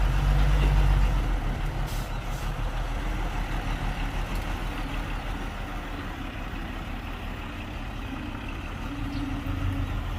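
Heavy diesel earthmoving machinery running steadily, louder in the first second or so, with a brief hiss about two seconds in.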